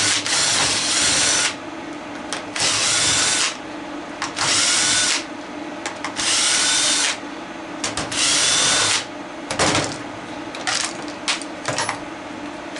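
Power drill driving screws out of a plastic housing in five short runs of a second or so each, with brief pauses between. Small clicks and knocks follow near the end.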